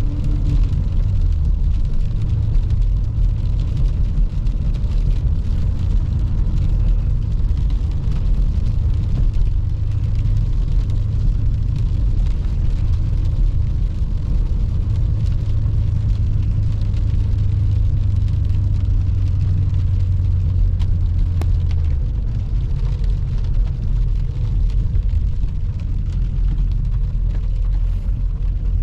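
BMW E39 M5's 4.9-litre S62 V8 running at a steady cruise, heard from inside the cabin, with a low, even drone. The drone eases off a little about three-quarters of the way through.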